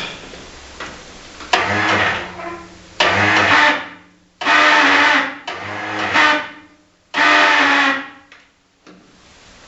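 Garden tractor's Kohler engine electric starter run in several short bursts of a second or two each, cutting off sharply between tries, while the engine fails to catch on a cold start; the owner suspects a balky starter.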